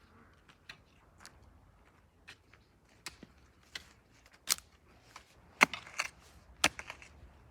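A hand tool striking stony ground while digging holes: irregular sharp knocks and clicks, with a few louder strikes clustered about five and a half to seven seconds in.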